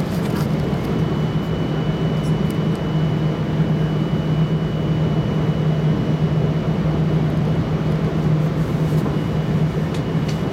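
Cabin noise inside a Bombardier Talent electric multiple unit running at speed: a steady low rumble of wheels on track, with a faint thin high tone held through most of it.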